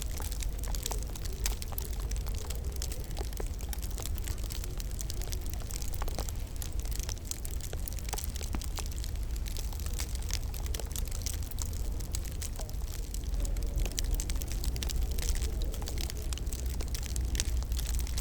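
Wood fire crackling in a fireplace: frequent small pops and snaps over a low steady rumble.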